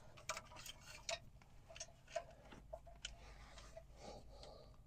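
A handful of faint, irregular clicks with light rubbing: plastic wire keepers being clipped onto a truck's brake lines.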